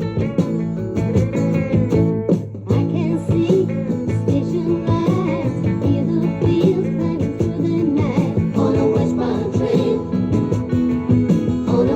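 Early-1970s pop song playing: a voice singing over guitar and a full band with a steady beat.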